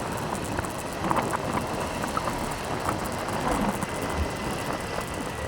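Motorbike being ridden on the road: engine and road noise with wind rushing over the microphone.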